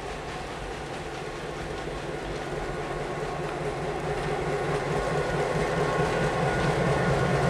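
Passenger train rolling past, the coaches' wheels rumbling and clicking over the rails. A diesel locomotive's engine hum comes in under it and grows steadily louder as the locomotive nears and passes.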